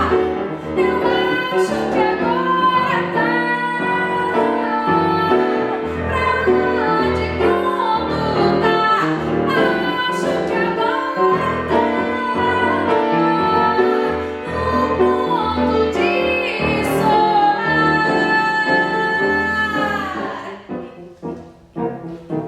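A woman singing a Brazilian popular song with instrumental accompaniment. Near the end she holds one long note that fades out, leaving the quieter accompaniment.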